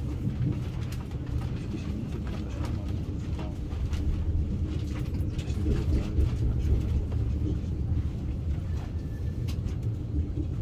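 ICE high-speed train running on the rails, heard from inside the carriage: a steady low rumble with scattered light clicks, swelling slightly about six seconds in.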